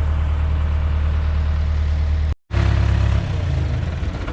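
Heavy engine idling steadily with a deep, even hum. A little over two seconds in it cuts to silence for a split second, then carries on and settles a little lower about three seconds in.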